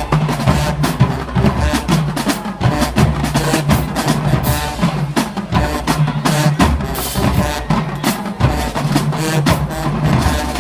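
Marching band drumline playing a cadence of rapid drum strikes over low drum tones.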